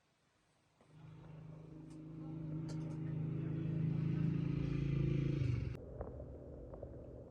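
An engine running steadily, starting about a second in and growing louder over several seconds, then dropping suddenly to a lower, rougher rumble with a few faint clicks near the end.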